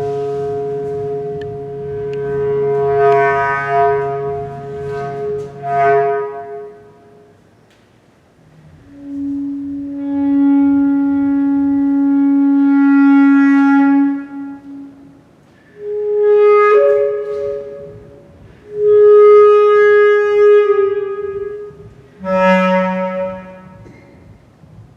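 Solo bass clarinet playing long sustained notes in separate phrases, with short pauses between them. The longest note is held about five seconds near the middle.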